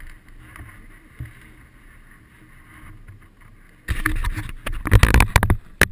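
Wind rumbling on the microphone, then a loud burst of buffeting and rustling noise about four seconds in, loudest about a second later, with one more short burst near the end.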